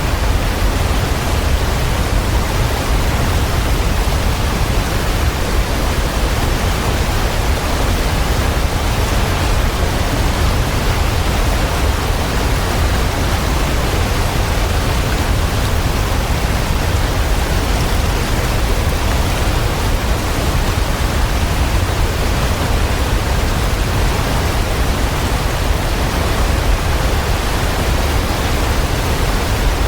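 Waterfall: a steady, unbroken rush of falling water, strongest in the deep low end.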